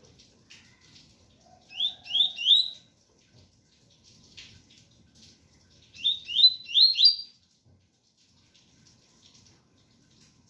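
Double-collared seedeater (coleiro) singing its 'tui tui' song: two short phrases of quick rising whistled notes, three in the first and four in the second, about four seconds apart, over faint rain.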